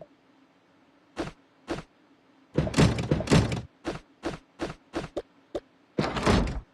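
Items being handled and set down in a refrigerator: a string of sharp knocks and clunks, with two longer rattling clatters, one in the middle and one at the end that cuts off suddenly.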